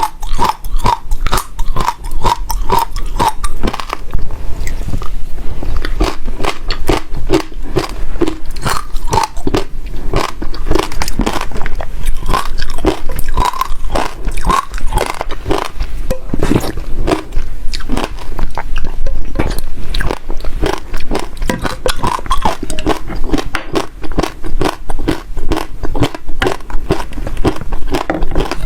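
Passion fruit seeds being bitten and chewed close to the microphone: a continuous, loud run of crisp crunches and cracks as the seeds break between the teeth.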